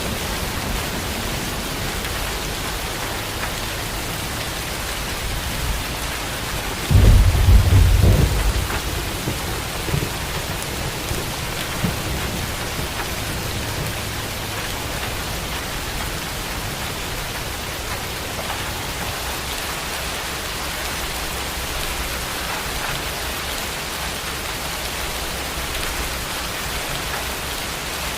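Steady rain falling, with a loud low rumble of thunder about seven seconds in that fades over a couple of seconds, then a few faint distant rolls.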